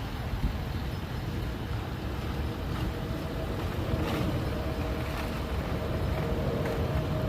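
Boeing 767-300ER airliner's twin jet engines on departure: a steady low rumble with a thin whine over it from about three seconds in, slowly growing louder.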